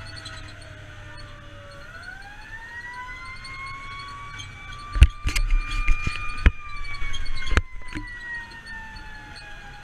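Fire engine siren wailing: the pitch dips low, rises slowly for a few seconds, then falls again, over a low engine rumble. Midway through comes a run of sharp knocks, the loudest sounds.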